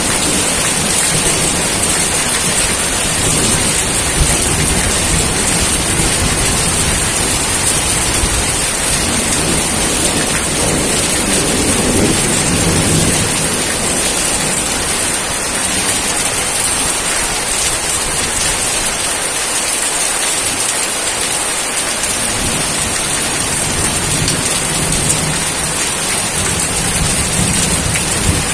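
Steady heavy rain pouring down, with low rolling thunder rumbling underneath that swells about ten to thirteen seconds in and fades for a while after.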